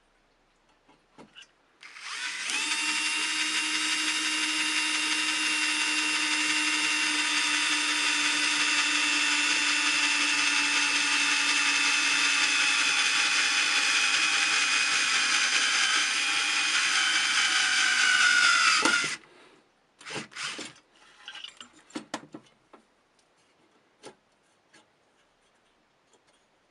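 Power drill running steadily for about seventeen seconds, its pitch sagging slightly under load near the end before it stops. A few short clicks and knocks follow.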